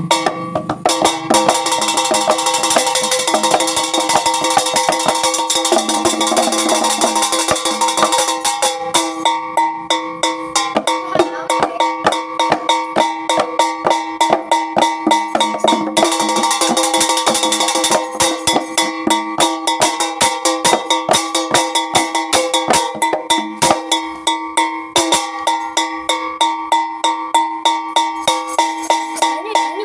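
Jaranan dance music from an East Javanese percussion ensemble: drums and small gongs play a fast, steady beat over held pitched tones.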